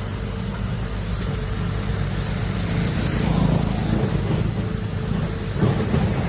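Heavy diesel construction machinery running steadily, an excavator-type engine drone that swells briefly about halfway through.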